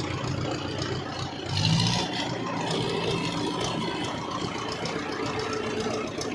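Tractor engine running steadily at low revs, with a brief louder surge about one and a half seconds in.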